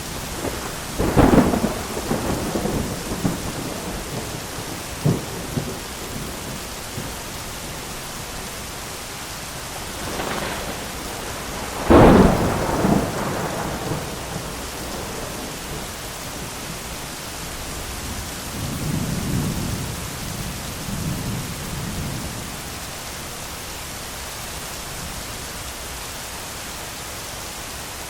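Thunderstorm with steady heavy rain. A sharp thunderclap about a second in rumbles off over a couple of seconds. A louder crack comes near the middle, and a low, softer roll of distant thunder follows later.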